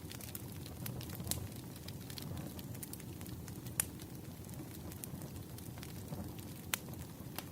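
Wood fire crackling: a steady low rumble of burning logs with scattered sharp pops, the loudest a little under four seconds in.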